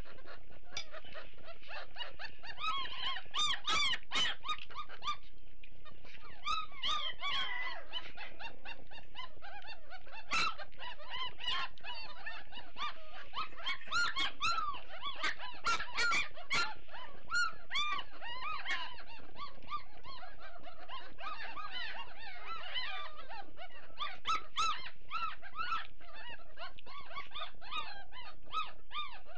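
A litter of Great Dane puppies squealing and whining, many overlapping high squeaks, while waiting to be fed. Scattered sharp clicks and knocks, with a few clustered between about 14 and 17 seconds in.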